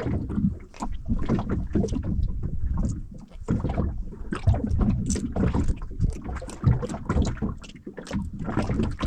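Water slapping against the hull of a small boat, with wind on the microphone and frequent irregular knocks.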